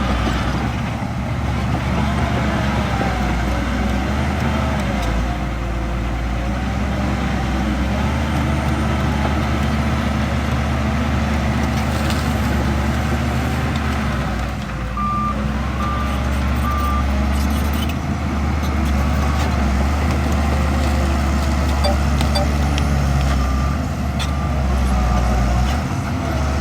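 Heavy diesel earthmoving machinery, a bulldozer and dump trucks, running steadily under load with a deep engine rumble. A reversing alarm beeps three times about halfway through and faintly again near the end.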